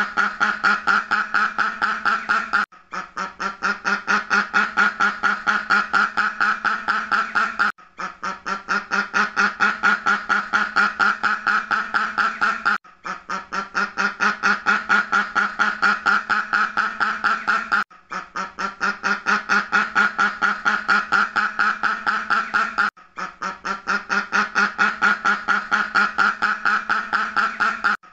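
A duck quacking in rapid runs of several quacks a second, each run lasting about five seconds and broken by a brief gap, the same pattern repeating as a loop.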